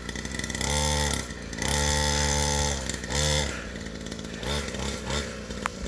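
A 49cc dirt bike engine revving in three bursts of throttle, each climbing and then dropping away, followed by a few shorter, fainter blips near the end.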